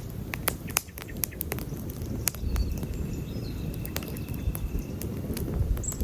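Wood campfire burning, with frequent sharp irregular crackles and pops over a low rumble of the flames. A faint, thin, high steady whistle sounds for a couple of seconds mid-way.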